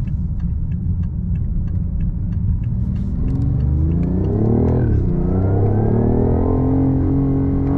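BMW i8's turbocharged three-cylinder engine heard from inside the cabin under hard acceleration. A low rumble at first, then the pitch climbs from about three seconds in, drops sharply at an upshift about five seconds in, and climbs again to another shift at the very end.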